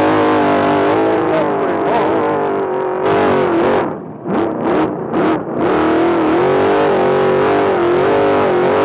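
A Trophy Truck's race engine running hard, its pitch rising and falling with the throttle. About four seconds in the revs drop and it briefly lifts off the throttle a few times before pulling hard again.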